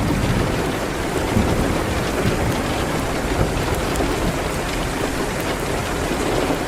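Steady rain, a dense even hiss with a deep low rumble underneath, with a few faint ticks of a crackling wood fire.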